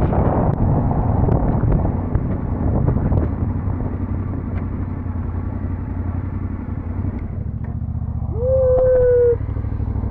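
Yamaha Ténéré 700's parallel-twin engine running under way, with wind noise over it. About eight seconds in, a horn sounds once, a steady tone held for about a second.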